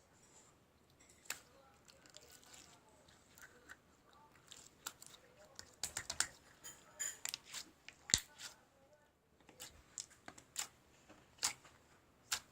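Scattered sharp clicks and taps with light rustling, coming thickest in the middle and later part.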